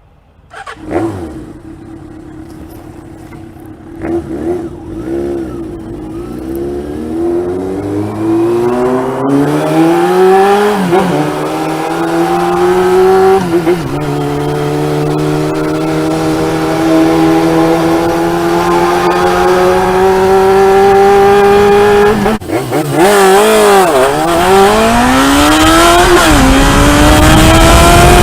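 Suzuki GSX400 Impulse inline-four motorcycle on an aftermarket exhaust, idling, then accelerating through the gears: the pitch climbs, drops at each shift, and holds steady at cruise for several seconds. After a cut about two-thirds of the way through, it revs up and down and then climbs again.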